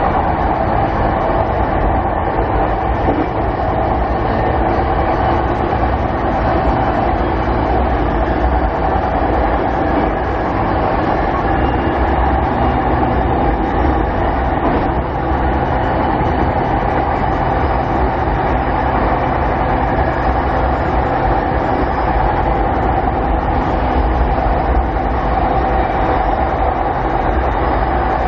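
Steady running noise inside a Keiyo Line electric commuter train car cruising between stations: wheels on the rails and a constant traction-motor hum.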